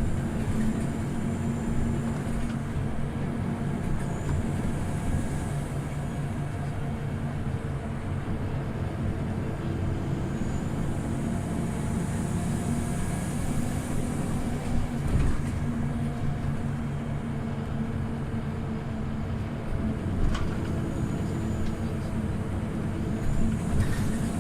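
Scania OmniLink city bus's diesel engine running steadily as the bus drives between stops. A few short knocks come through, around the middle and near the end.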